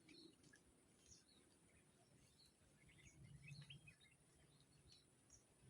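Near silence outdoors with faint, scattered bird chirps and a thin steady high hiss.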